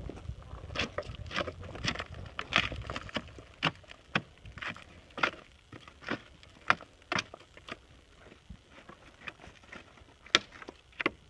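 Boulder tumbling down a volcanic slope: a long run of irregular sharp knocks and cracks as it strikes rock, a few loud ones standing out near the end.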